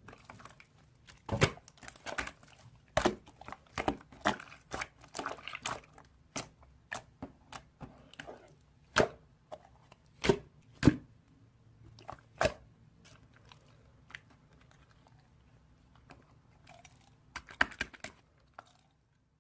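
Irregular crisp crunches and clicks close to the microphone, coming in bunches, with a quieter stretch past the middle and a short flurry near the end.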